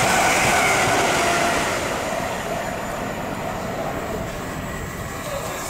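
Electric multiple-unit passenger train passing through at speed, a steady rumble of wheels on rails that is loudest at first and fades over the next few seconds as it goes by.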